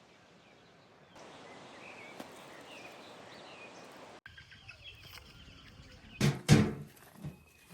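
Outdoor ambience with small birds chirping over a steady background hiss, which cuts off abruptly about four seconds in. Near the end comes a brief loud sound, the loudest thing here.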